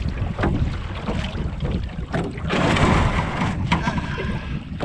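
Rowboat being rowed: oars knocking and a rush of water about two and a half seconds in, under heavy wind rumble on the microphone.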